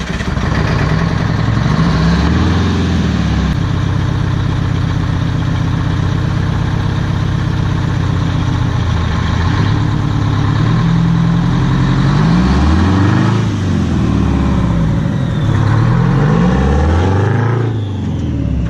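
Heavy truck's diesel engine running steadily, then revved up and back down three times near the end.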